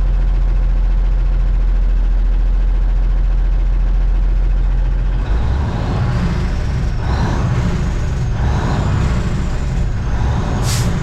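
1989 Kenworth K100E cabover's diesel engine running steadily, then about five seconds in the Jake (engine compression) brake comes on with a rough, pulsing bark as the truck slows: the Jake brake is working. A short hiss near the end.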